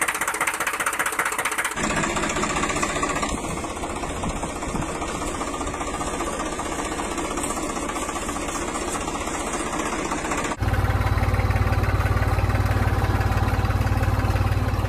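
Tractor diesel engine running, in three clips joined by abrupt cuts about two seconds in and about ten and a half seconds in; the last part is louder and deeper, with the engine heard close up.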